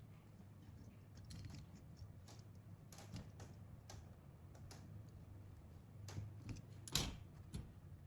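Scattered light clicks and taps of small parts and tools being handled on a workbench, the loudest about seven seconds in, over a low hum.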